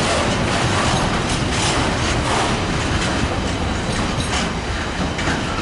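Railway wagons rolling past at close range: a steady rumble of wheels on rail, with repeated clacks as they cross rail joints.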